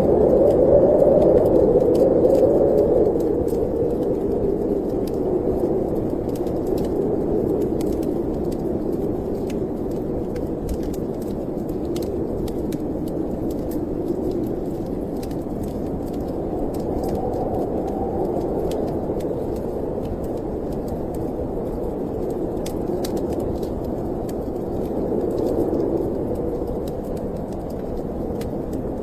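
Storm wind blowing steadily with slow swelling gusts, the loudest at the start, over faint scattered crackles from a wood fire.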